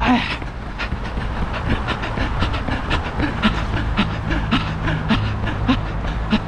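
A runner's footsteps slapping the pavement at about three strides a second, over a steady low rumble.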